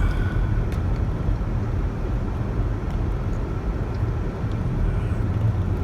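Car driving: the steady low rumble of engine and tyres on the road.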